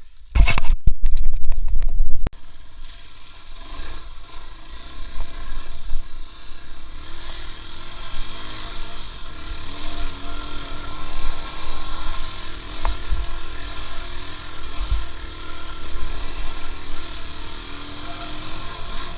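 A motor vehicle's engine running while under way, its pitch wandering slightly, with a very loud rumbling burst of about two seconds at the start.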